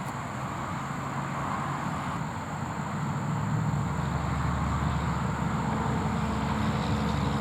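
Motor-vehicle engine hum over steady traffic noise, growing louder in the second half as a vehicle passes.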